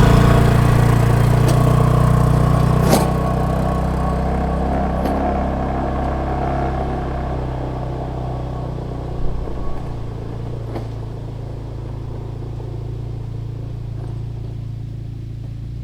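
An engine running at a steady pitch and slowly growing quieter, with a couple of brief clicks, one about three seconds in.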